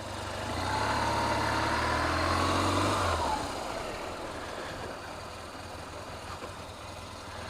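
Motorcycle engine pulling away, its note rising gently for about three seconds, then easing back to a quieter, steady run.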